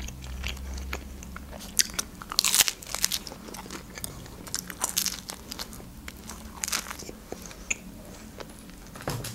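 Close-up chewing of a slice of pizza, with short crunchy sounds coming at irregular intervals every second or so.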